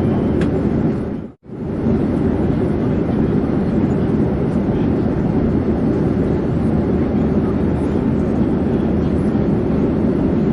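Steady, loud airplane noise in flight, an even rumbling roar with no changes in pitch. It drops out briefly to near silence about a second and a half in, then resumes at the same level.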